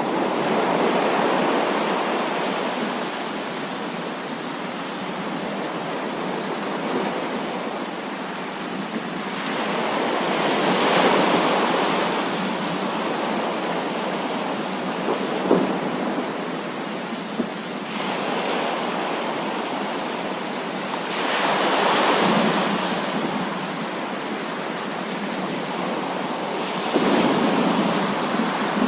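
Heavy rain pouring steadily, with rolls of thunder swelling up and fading about four times, and two sharp taps near the middle.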